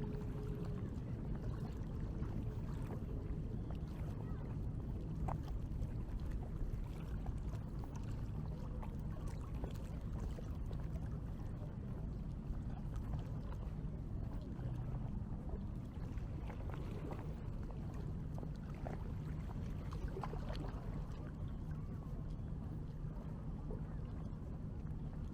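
Outdoor beach ambience: a steady low rumble with faint scattered sounds above it.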